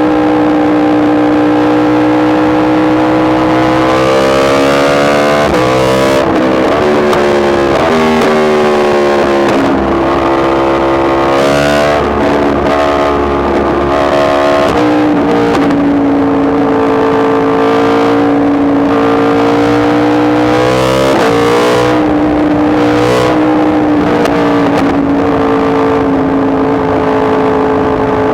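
Yamaha MT-10 SP's crossplane inline-four engine under way, its note holding steady and then rising and dropping back several times as the rider accelerates, changes gear and backs off.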